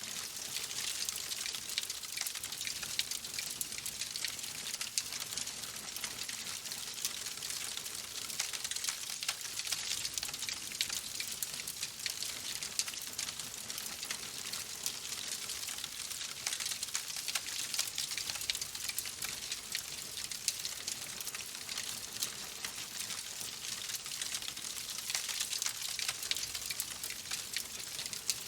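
Wood fire in a fireplace crackling steadily: a constant hiss with dense, rapid small pops and snaps.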